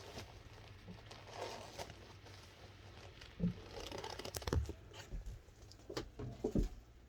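Rustling and crinkling with irregular knocks and thumps, like things being handled. The knocks come thicker and louder in the second half.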